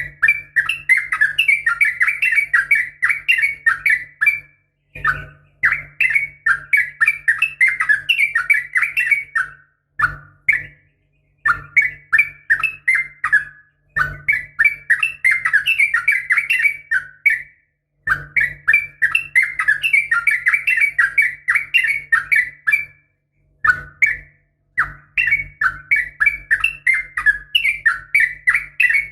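Yellow-vented bulbul (trucukan) singing long phrases of rapid, bubbling chattering notes, a few seconds each, separated by short pauses. A faint low hum starts and stops with each phrase.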